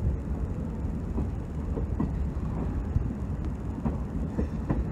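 Moving Indian Railways passenger coach heard from its open door: a steady low rumble of wheels on the rails, with scattered short clacks.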